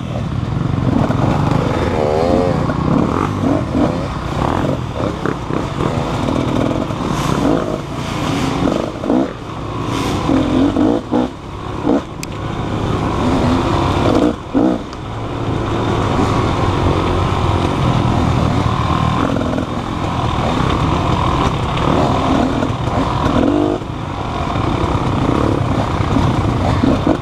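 Motorcycle engine running under constantly changing throttle, its pitch rising and falling, with a few brief drops in level.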